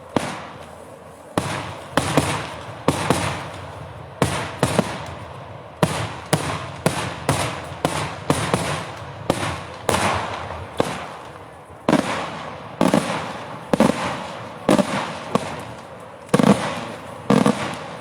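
Daytime fireworks: a continuous barrage of aerial shells bursting in sharp bangs, about one or two a second, each followed by a short echoing tail.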